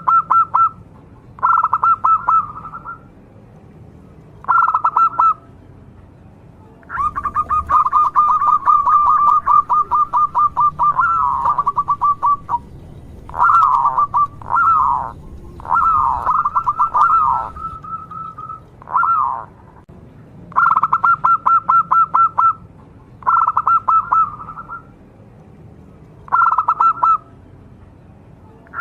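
Zebra dove (perkutut) cooing in bouts of rapid trilled coos. The bouts are short, about one to two seconds each, with a long run of about five seconds near the middle followed by a few swooping, falling notes.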